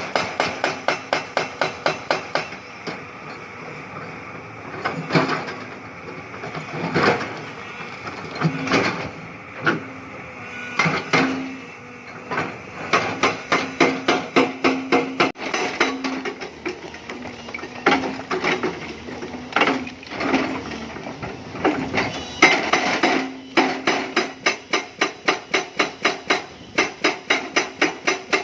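Hyundai excavator's hydraulic breaker hammering limestone in rapid, even blows of about five a second. The blows stop and start, with irregular knocks and the engine running in the pauses.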